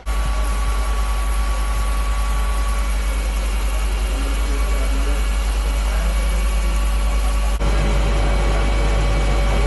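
An engine running steadily: a loud, even low rumble with a few steady tones above it, and a brief break about seven and a half seconds in.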